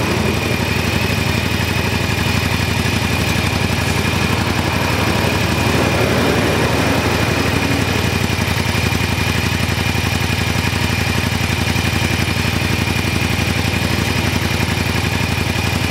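Yamaha Drag Star 400's air-cooled V-twin idling steadily through its stock muffler, with a thin steady high tone alongside.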